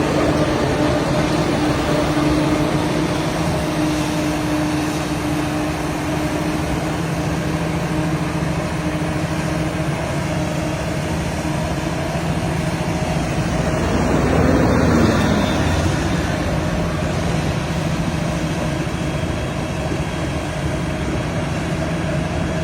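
Forage harvesting machinery running steadily: an engine drone with a constant hum. About fourteen seconds in it briefly swells, with a tone that falls as it passes.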